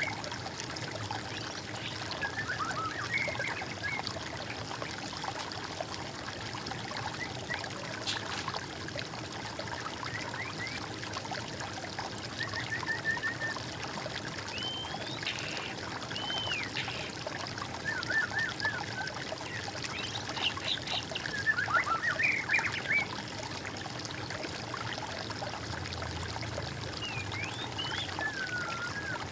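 Water trickling steadily, with songbirds singing short, scattered phrases over it: chirps, a quick trill of repeated notes and rising whistles. The busiest and loudest bout of song comes about three-quarters of the way through.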